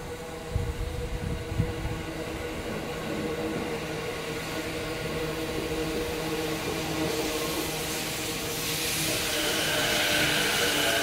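JR Jōban Line local electric commuter train pulling into the platform and rolling past close by, with a few heavy knocks from the wheels over the track about a second in. Its steady motor hum and wheel noise grow louder as the cars go by, and a high, steady whine joins near the end as it slows.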